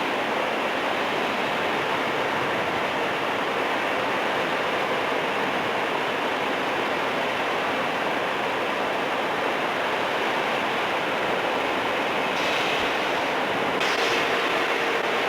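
Steady, even rushing noise with no distinct knocks or clicks, and a faint steady tone coming in near the end.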